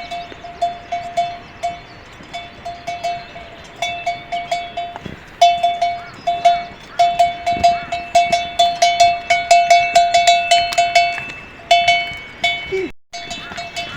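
Livestock bells clanking as the animals move, a few strikes a second, thickening into a busy jangle of more than one bell in the middle stretch.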